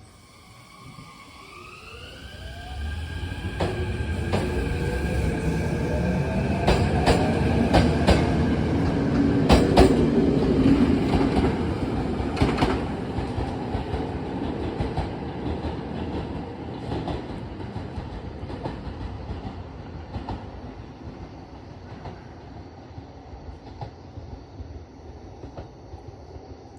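Hokuriku Railroad 03 series electric train pulling away from a station. The motors' whine rises in pitch over the first few seconds and levels off, then the wheels click over rail joints, loudest about ten seconds in, before the train fades into the distance.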